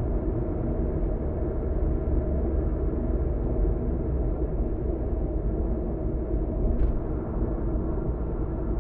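Steady road and engine rumble of a car driving, heard from inside the moving car, with one short tick about seven seconds in.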